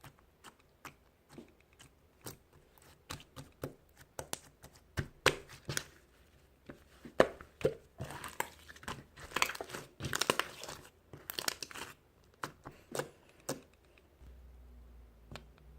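Crinkling and tearing rustles mixed with many short sharp clicks, busiest in the middle, then thinning out to a few taps.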